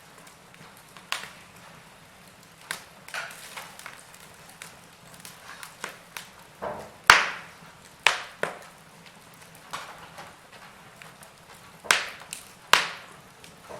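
Wood fire in a fireplace crackling, with irregular sharp pops and snaps over a faint steady hiss. The loudest pops come about halfway through and twice near the end.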